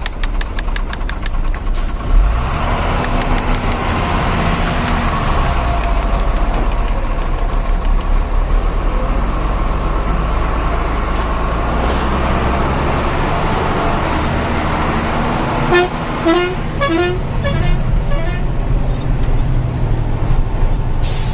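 Truck engine running steadily, with a series of short pitched horn toots near the end.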